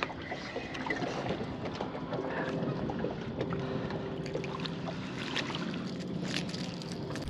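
Water and wind noise around a small fishing boat, with scattered small clicks and a faint steady hum underneath.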